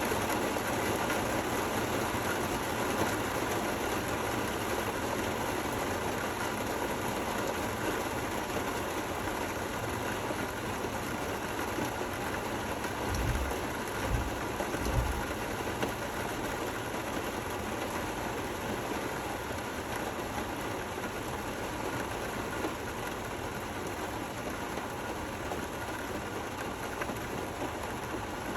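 Steady rain falling, an even hiss. A few low thumps come close together about halfway through.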